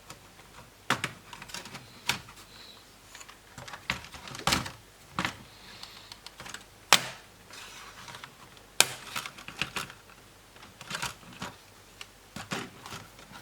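Sharp plastic clicks and snaps of a Lenovo B550 laptop's palm rest retaining clips being prised loose from the base, about a dozen spread irregularly, the loudest about seven seconds in.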